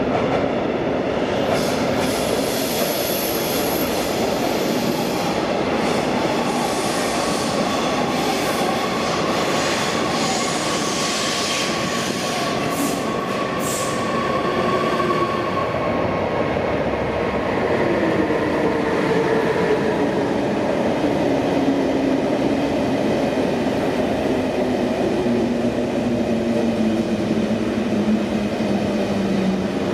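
Electric passenger trains running into an underground station: a steady rail rumble with high wheel and brake squeal in the first half, and a whine falling slowly in pitch through the second half as a train slows to a stop.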